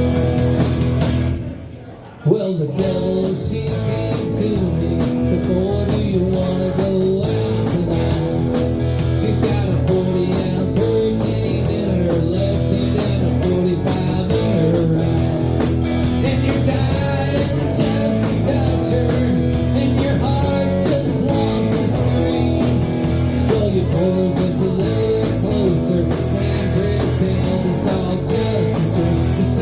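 Rock and blues music with guitar, drums and singing, with a steady beat. It drops out briefly about two seconds in, then comes back.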